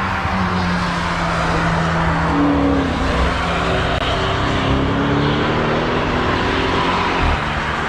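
Car engines passing through a corner, more than one engine note at once, one falling slowly in pitch as it goes by.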